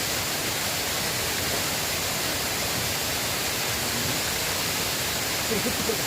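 River water flowing, a steady rushing.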